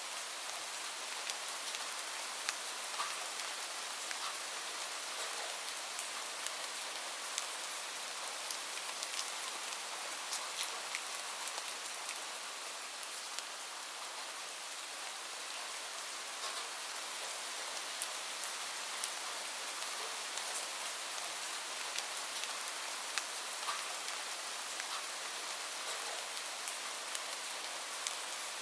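Steady rain falling, an even hiss with many individual drops ticking and pattering on a surface.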